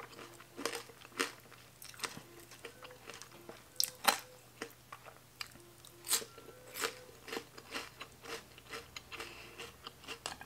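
A person chewing and smacking a mouthful of Thai rice noodles with meatballs and fresh vegetables: irregular wet mouth clicks, the sharpest about four and six seconds in.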